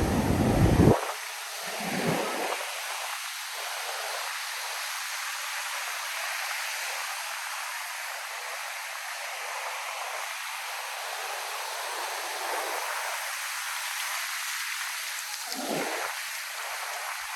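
Ocean surf washing onto a sandy beach, heard as a steady hiss. A louder rumble with wind on the microphone cuts off suddenly about a second in, leaving a thin sound with no low end.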